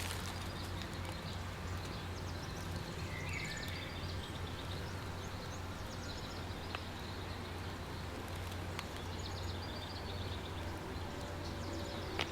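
Forest ambience with a steady low background rumble and faint, scattered bird chirps and short trills.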